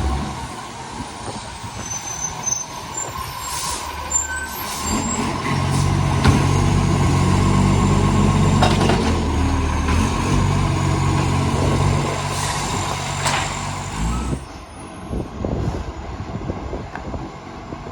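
Garbage truck's diesel engine running under load with a massive exhaust leak. It grows louder and harder from about five seconds in, holds to about fourteen seconds, then drops back, with a few sharp clunks and a steady whine throughout.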